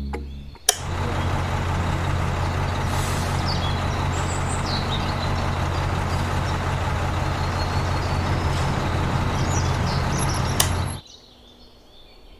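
Small motor of a DIY miniature construction vehicle running steadily with a low hum and a dense rattle, switched on with a click under a second in and cut off abruptly near the end.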